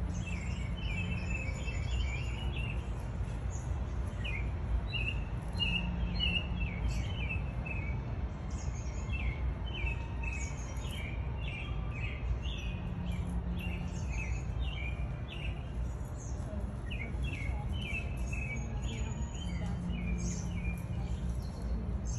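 Songbirds chirping and calling in quick short notes throughout, over a steady low rumble.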